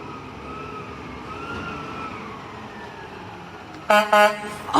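A distant emergency-vehicle siren wailing faintly, its pitch slowly rising and falling, over steady street noise. Near the end a loud, short, high-pitched sound cuts in.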